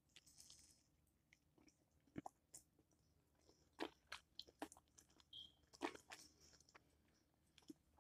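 Faint close-up chewing of a chicken quesadilla: soft, scattered mouth clicks and small crunches at irregular intervals.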